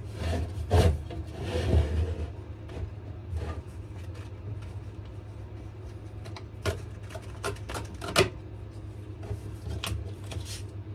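Sandpaper being cut down to a smaller piece for the next grit: rustling paper about one to two seconds in, then scattered sharp clicks and knocks from handling it.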